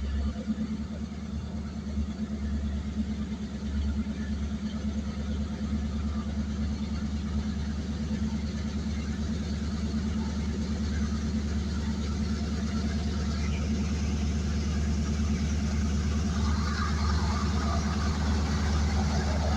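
An engine drones steadily and grows slowly louder, with more hiss and rattle coming in over the last few seconds.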